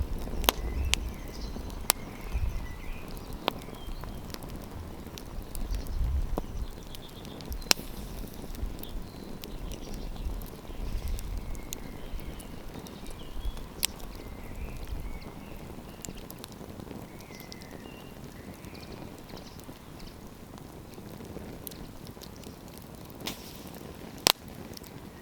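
Campfire wood crackling, with scattered sharp pops, the loudest near the end. A low wind rumble on the microphone runs through the first two-thirds, then drops away.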